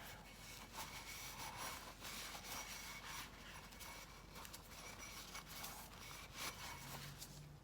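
A cloth rag wiping and rubbing oil off the cartridge oil filter cap: faint, continuous scrubbing made of many small strokes.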